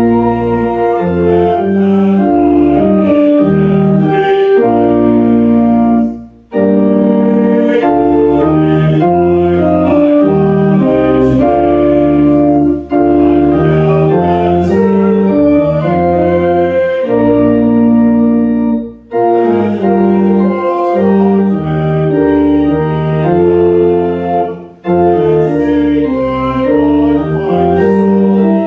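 Organ playing slow held chords, in phrases about six seconds long with short breaks between them.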